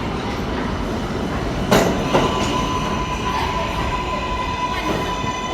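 New York City subway train moving through an underground station: a steady rumble of wheels on rails, two sharp clanks a little under two seconds in, then a steady wheel squeal with several overtones that lasts to the end.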